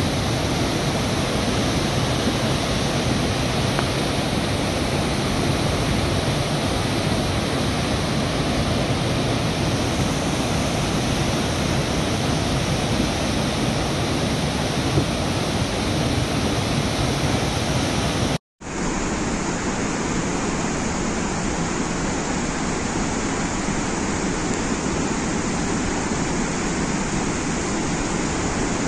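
Floodwater rushing in a steady, heavy torrent through the opened spillway gates of the Dulhasti hydroelectric dam, released because of the high water level. The sound cuts out for a moment about two-thirds of the way in, then resumes slightly duller.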